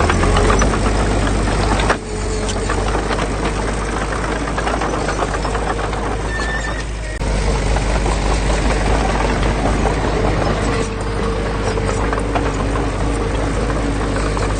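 Heavy diesel construction machinery running under load: a low engine rumble with a steady whine and dense metallic clatter. The sound cuts abruptly about 2 seconds in and again about 7 seconds in.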